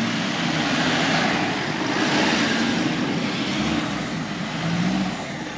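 Off-road 4x4's engine running hard at high revs under load, with a broad roar, easing off near the end.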